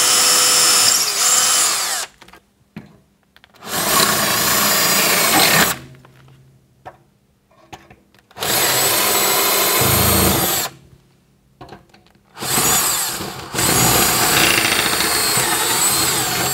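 Power drill boring 6 mm holes into a board at an angle for wall plugs. It runs in bursts: a run that stops about two seconds in, then three more runs of a few seconds each with short pauses between.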